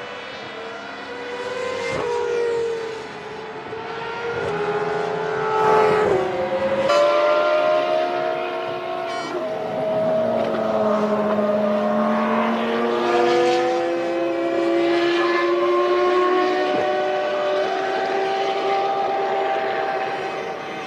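Several Formula One V10 engines running at once, their pitch rising and falling as the cars pass and change speed, with a few sharp cracks among them.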